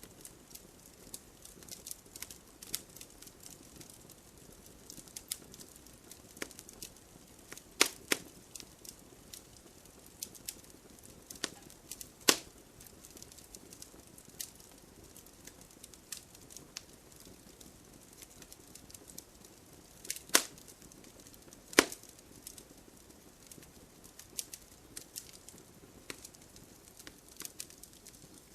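Wood fire in a fireplace crackling: irregular small snaps over a faint hiss, with a few much louder pops, two close together about eight seconds in and others near twelve, twenty and twenty-two seconds in.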